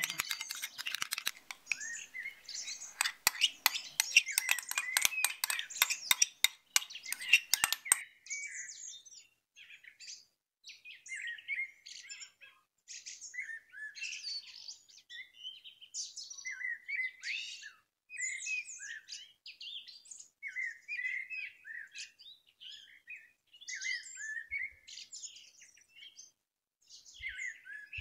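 Small songbirds chirping and twittering in quick, repeated phrases. For about the first eight seconds a dense run of rapid clicks and scrapes sounds over them, then stops.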